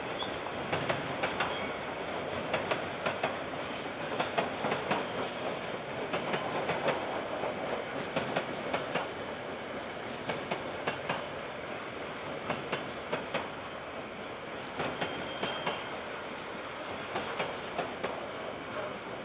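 KiwiRail train wagons rolling past with a steady rumble, their wheels clicking and clacking on the rails several times a second in an irregular run.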